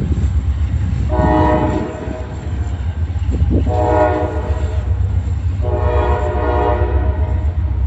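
Freight locomotive's air horn sounding three blasts, about a second each with the last one longest, over the steady low rumble of the diesel locomotive and train passing.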